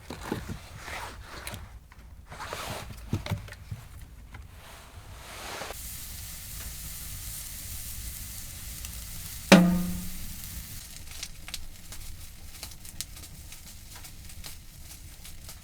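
A few handling knocks, then a steady sizzle on the hot wood stove starts partway through. About halfway through comes one loud clank with a short metallic ring, and light crackles follow it.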